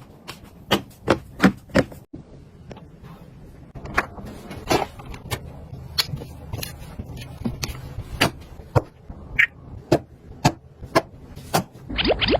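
Irregular light clicks and taps, about twenty over the stretch, of small household items being handled and set down, with a brief rising squeak or scrape near the end.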